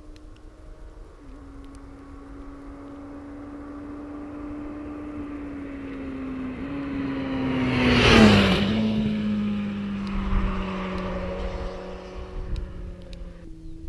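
Honda CB1000R's inline-four engine with a Yoshimura R-77 exhaust, riding past at a steady speed. It grows louder, passes about eight seconds in with a drop in pitch, then fades.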